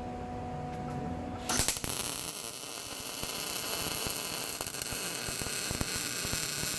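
Electric welder humming, then about a second and a half in the arc strikes and crackles steadily for about five seconds before cutting off abruptly, as a steel exhaust pipe is welded.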